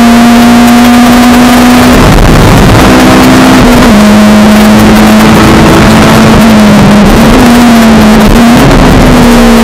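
Honda Civic EP3 Type R's K20A2 four-cylinder engine, heard loud from inside the cabin through its SuperStreet Performance exhaust, running hard at high revs. The note holds steady, drops a little about four seconds in, then wavers up and down near the end.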